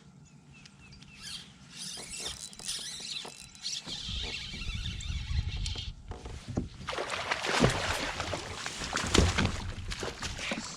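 Water splashing and knocks against a kayak, growing louder and busier from about seven seconds in: a large bass thrashing at the surface as it is fought to the kayak and landed.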